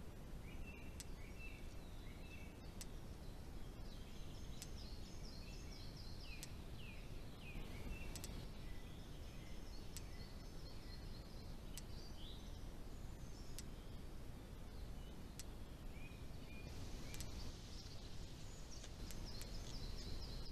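Small birds singing in runs of short chirps and trills over a steady low outdoor background noise, with faint sharp clicks every second or two.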